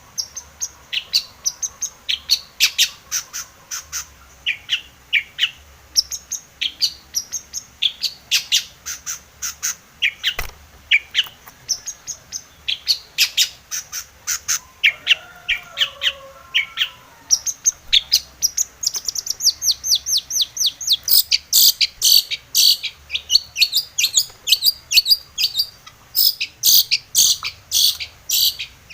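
Long-tailed shrike (cendet) in full song: a loud, rapid chatter of short, sharp high notes, with brief pauses between phrases. It grows faster and denser past the middle.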